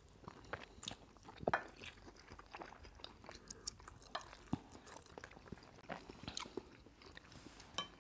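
Close-miked eating of jollof rice: faint chewing with scattered wet mouth clicks and lip smacks, the sharpest about one and a half seconds in.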